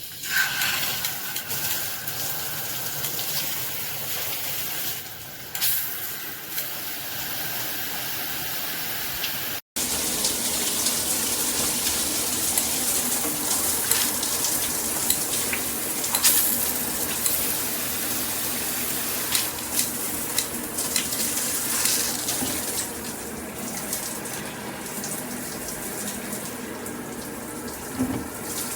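Water spraying steadily from the Cobbe 8-function shower head, a continuous hiss of spray. The sound cuts out for an instant about ten seconds in, then the spray continues.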